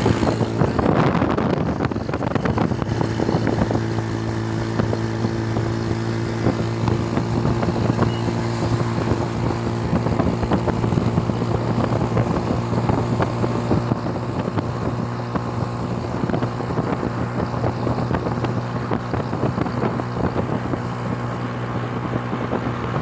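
Motorcycle engine running at a steady, even speed, with wind rumbling on the microphone.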